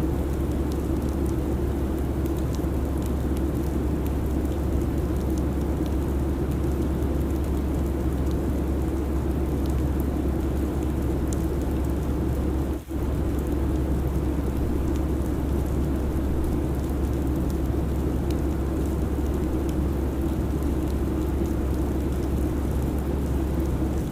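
Steady airliner cabin noise at cruise: a constant low rumble under a smooth hiss. It dips briefly about thirteen seconds in.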